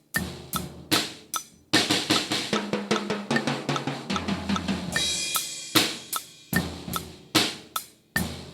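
Acoustic drum kit playing a rock beat, its snare fitted with an Evans G2 coated head: evenly spaced hits, then a dense fill from about two seconds in, a long ringing crash about five seconds in, and the beat picks up again.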